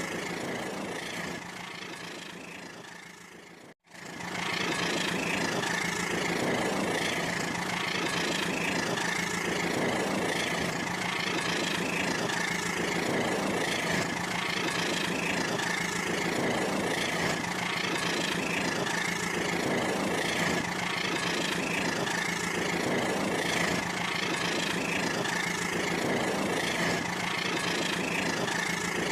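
Toy train running on its track: a steady motor whine with a regular beat about once a second. The sound fades and cuts out briefly about four seconds in, then resumes at an even level.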